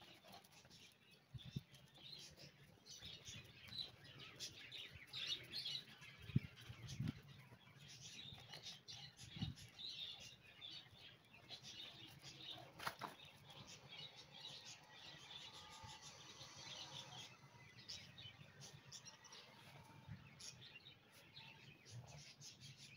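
Faint chirping and twittering of small birds, with a few soft low thuds.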